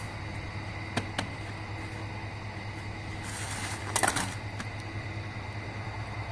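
A few light clicks and knocks from parts being handled, the loudest cluster just after four seconds in, with a short hiss just before it, over a steady low hum.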